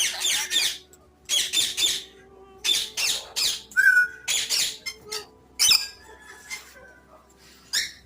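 Parrot squawking in a run of short harsh calls about a second apart, with a brief whistled note about four seconds in.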